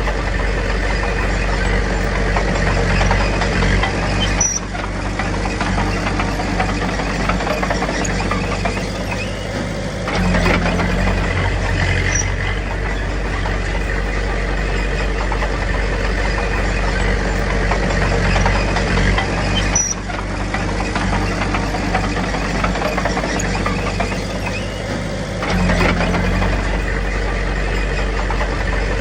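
Diesel engine of a small bulldozer (Komatsu D21P) running steadily while pushing fill. The engine eases off twice and picks up again, about fifteen seconds apart.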